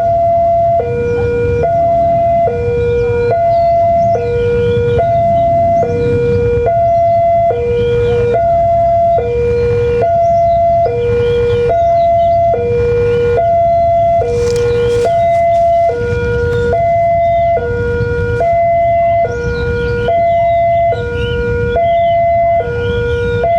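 A two-tone hi-lo siren steadily alternating between a higher and a lower note, each held for just under a second, over a continuous low rumble.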